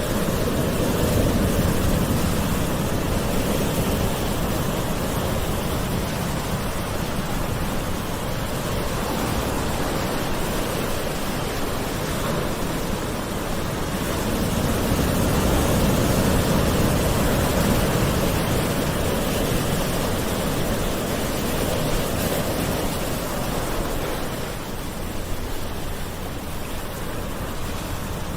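Gentle ocean waves washing onto a shore, a continuous surf hiss that swells slowly, with two broad surges and a slight easing near the end.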